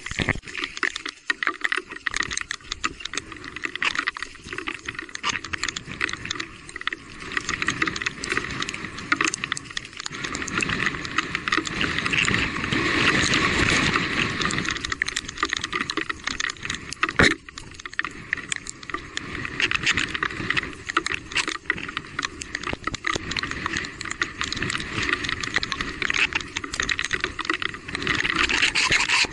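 Electric mountain bike ridden over a rough, wet trail: a constant clatter and rattle of the bike over rocks, with tyres running through water and mud. It swells louder partway through, and there is one sharp knock a little after the middle.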